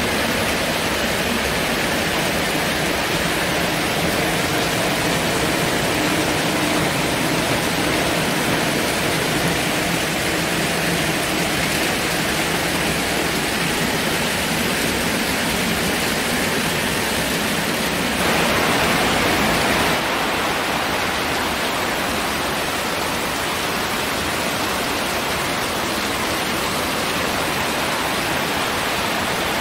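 Heavy rain pouring down in a steady rush, briefly louder for a couple of seconds past the middle.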